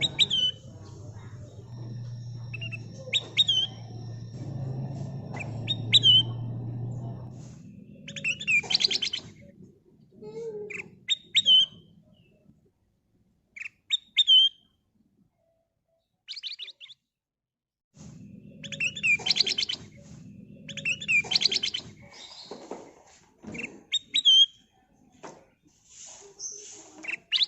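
Kutilang emas bulbul calling and singing: short, high, bending whistled notes repeated every second or so, with quick rattling trills near the middle and again later on. A low steady hum runs underneath for the first quarter and comes back about two thirds of the way in.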